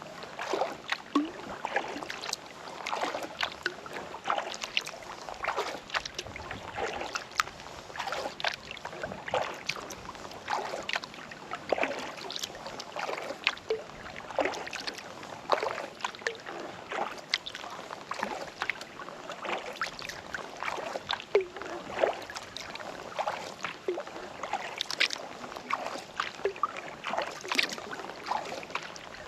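Kayak paddle dipping into lake water, stroke after stroke, with small splashes and water dripping off the blades throughout.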